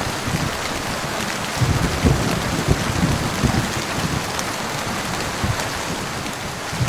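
Heavy rain falling steadily on surfaces, with irregular low thuds mixed into the hiss.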